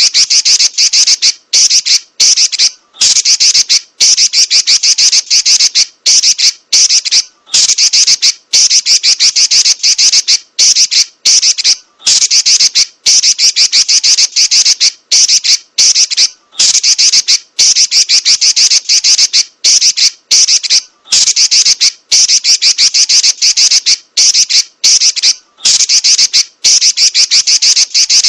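Female Pekin robin (red-billed leiothrix) giving a rapid, rattling chatter in long rolling runs, broken by short pauses every second or two.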